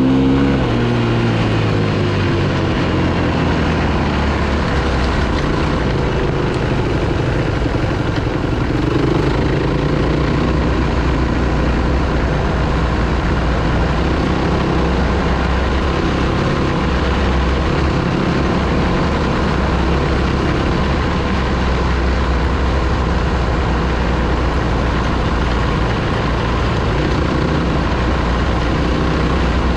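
Dirt bike engine easing off, its pitch falling in the first second, then running on at a low steady pitch.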